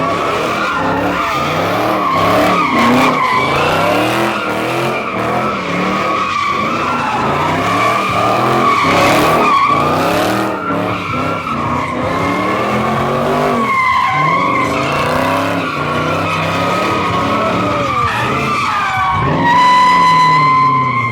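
A car drifting: tires squealing continuously while the engine revs up and down, the squeal settling into one steady pitch near the end.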